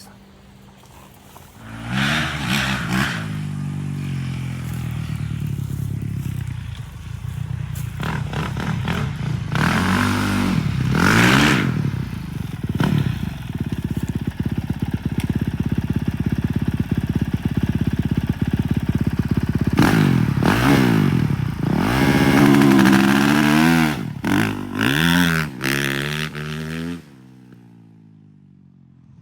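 Dirt bike engine revving hard, its pitch repeatedly climbing and dropping as it accelerates and shifts, then cutting off abruptly about two seconds before the end.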